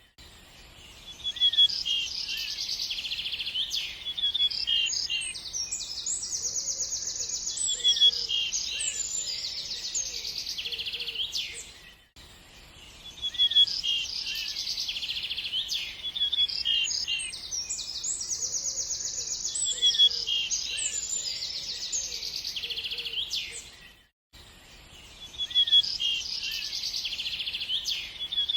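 Birds chirping and singing, high-pitched calls with fast trills. The same short stretch of song repeats about every twelve seconds, with a brief drop-out at each join.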